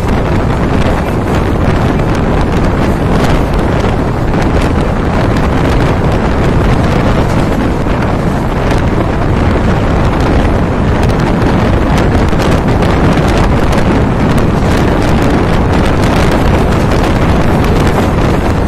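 Wind buffeting the microphone as it is held out of a moving express train, over the continuous running noise of the coaches on the track, with scattered clicks throughout.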